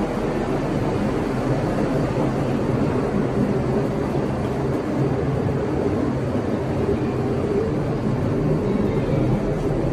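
Large roll-on/roll-off ferry's engines running with a steady low drone and rumble.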